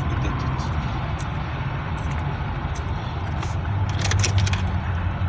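Steady low rumble of a running vehicle engine, with a few sharp clicks about four seconds in.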